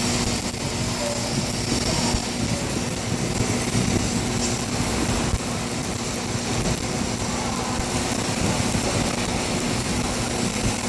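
Electric arc welding on a vertical joint: the arc crackles and sizzles steadily without a break, over a steady hum.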